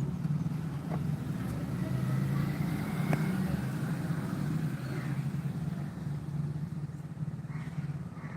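An engine running steadily, a low even hum with a light background hiss.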